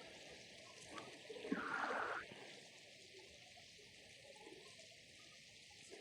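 Faint, steady rush of flowing river water, with a brief louder sound about a second and a half in.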